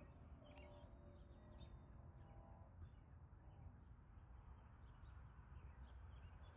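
Near silence outdoors: a faint low rumble with scattered faint bird chirps.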